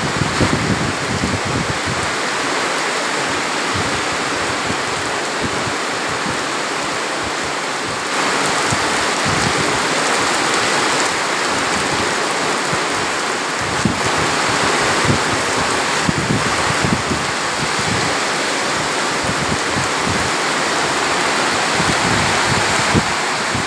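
Heavy rain pouring steadily, growing louder about eight seconds in.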